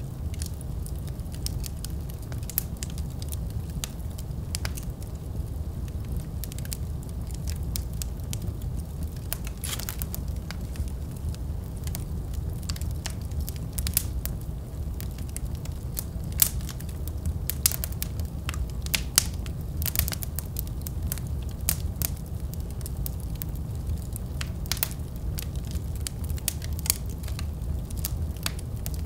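Wood fire burning in a fireplace: a steady low rumble of flame with irregular crackles and sharp pops.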